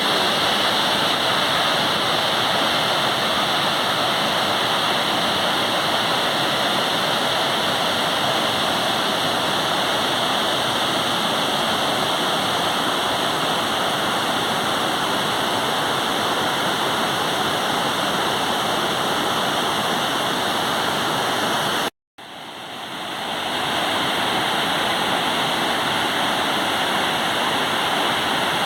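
Waterfall rushing steadily. About 22 seconds in the sound cuts out completely for a moment, then fades back in.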